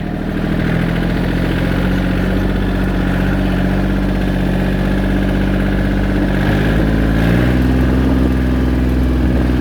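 Engine of a 1994 John Deere 770 compact tractor, a three-cylinder diesel, running steadily while the tractor is driven. The engine's pitch steps up about seven seconds in as the revs rise, then holds.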